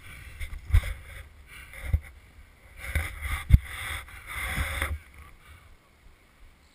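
Handling noise close to the microphone: a few dull, irregular thumps and rustling of clothing and gear.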